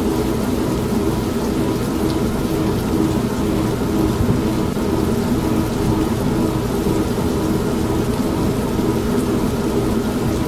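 Steady rain with low, continuous thunder rumbling, mixed with the constant hum of an old manual washing machine running. The sound holds even throughout.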